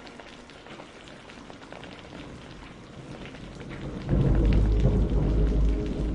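Rain falling with a soft patter of drops, then about four seconds in a loud, low thunder rumble sets in suddenly and carries on.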